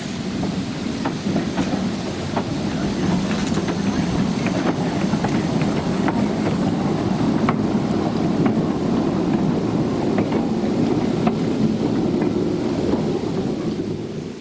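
Train rolling along the track: a steady low rumble with irregular sharp clicks of the wheels over the rails. It cuts off abruptly at the end.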